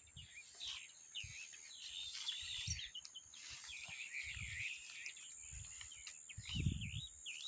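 Birds chirping and singing, with many short rising and falling notes overlapping throughout, over a steady thin high-pitched tone. A few low thumps break in, the loudest near the end.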